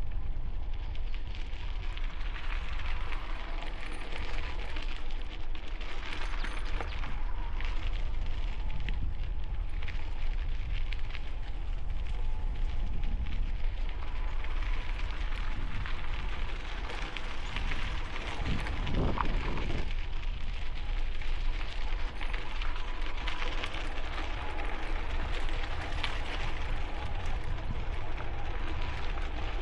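Bicycle tyres crunching steadily on gravel, with wind rumbling over a helmet-mounted camera microphone while riding into a strong headwind.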